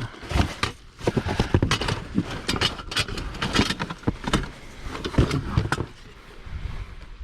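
Household junk being rummaged through by hand, with a run of irregular knocks, clatters and rustles as items are shifted and moved around.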